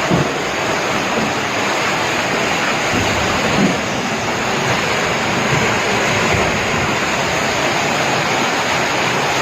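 Steady rushing hiss of heavy water: monsoon rain and flowing floodwater.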